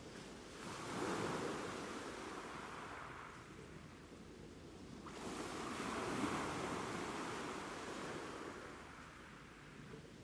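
Ocean waves washing in, two waves about four and a half seconds apart. Each surges up quickly and then slowly fades.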